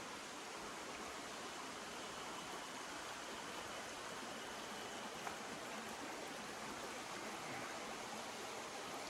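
Flowing water running with a steady, even rush.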